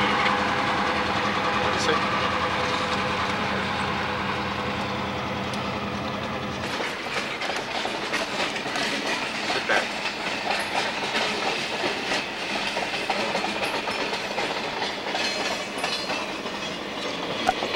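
McCloud River Railroad diesel locomotive running as it passes, with a steady engine hum. About seven seconds in the sound changes suddenly to freight cars rolling by with clicking wheel clatter, heard from inside a car moving alongside the train.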